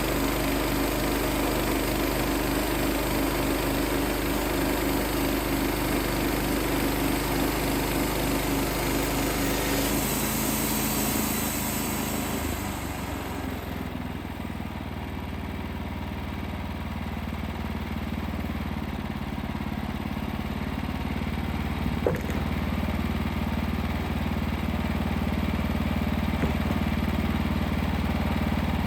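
Wood-Mizer LX55 portable band sawmill's 14 hp engine running steadily. About ten to thirteen seconds in, a high hiss dies away and the engine note shifts lower and steadier; a single sharp knock sounds about 22 seconds in.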